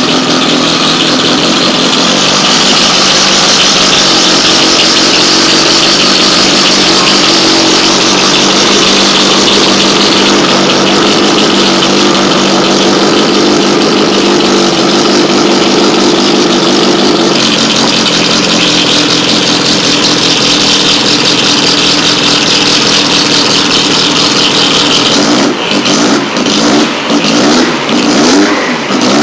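Lotus Europa S1 race car's engine running hard and loud, holding a steady note that shifts pitch about ten and seventeen seconds in, then turning choppy near the end.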